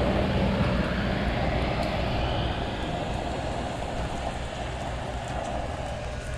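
Steady rumble and hiss of a vehicle driving, fading slowly.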